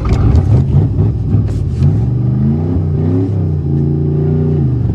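Pontiac car engine revving hard under load in drive, pitch climbing and dropping twice, then held steady before cutting off abruptly near the end.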